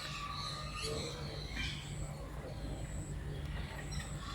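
Bird-park aviary ambience: scattered short bird calls and faint distant voices over a steady low hum.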